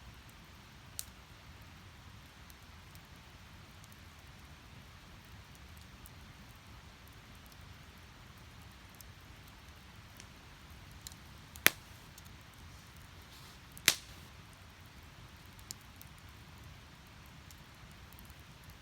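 Split firewood burning in a steel fire stand: a faint, steady rush of flame broken by a few sharp pops from the logs. The two loudest pops come about two seconds apart in the middle stretch.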